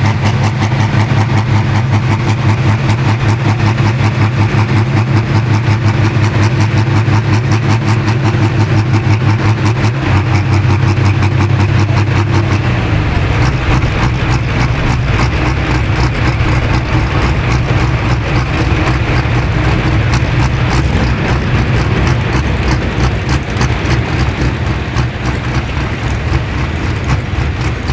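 Pro Stock pulling tractor's diesel engine running steadily at a low, even speed, then settling into a deeper, lower note about twelve seconds in.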